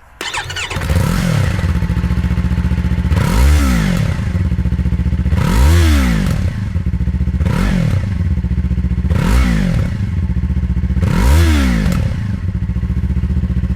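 2025 Yamaha R3's parallel-twin engine through its stock exhaust, idling and revved six times with quick throttle blips, about one every two seconds.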